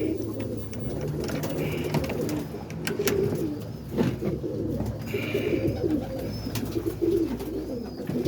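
Several roller pigeons cooing together in a small loft, a continuous low warbling, with a few sharp knocks, the loudest about four seconds in.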